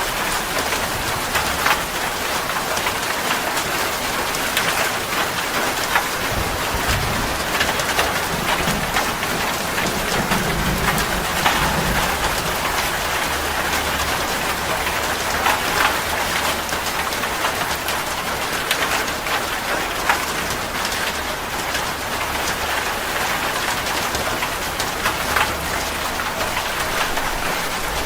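Steady rain with individual drops pattering sharply on a surface. A low rumble of thunder swells about a quarter of the way in and again in the last third.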